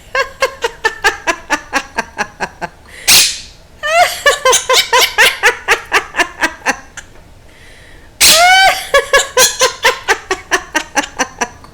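Quaker parrot giving rapid laugh-like calls in three long runs of quick repeated notes, about six or seven a second, with two harsh, loud squawks, one about three seconds in and one about eight seconds in.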